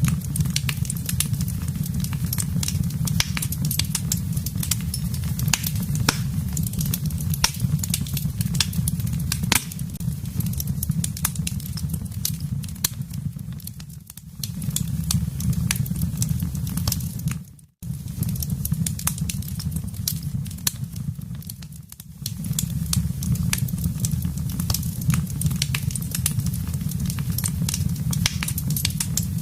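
Wood fire in a fireplace crackling, with frequent sharp pops and snaps over a steady low rumble of the flames. The sound fades down a few times in the middle and drops out for an instant a little past halfway.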